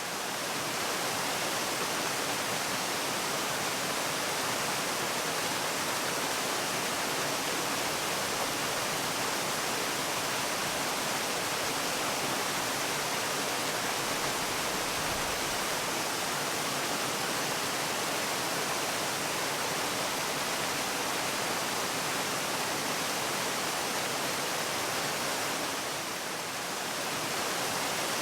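Waterfall: a steady, even rush of falling water, dipping briefly in level near the end.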